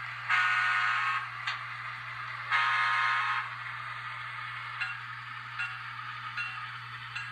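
Digitrax sound decoder in an N-scale Kato E8A model diesel playing its horn: two blasts, each just under a second long, from the model's small speaker. A steady low hum runs underneath, and light metallic strikes follow a little faster than once a second.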